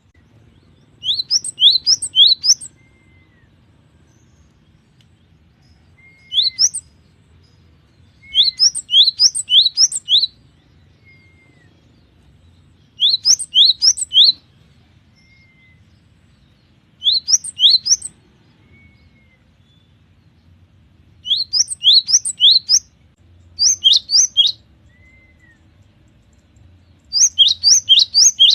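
Cinereous tit (gelatik batu) singing loudly: repeated bursts of three to six quick, rising whistled notes, each burst about a second long and a few seconds apart, with soft single call notes in the gaps.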